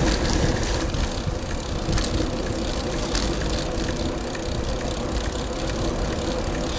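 Riding noise from a moving bicycle: wind buffeting the microphone with a steady rumble of tyres on the road, and small clicks and rattles from the bike.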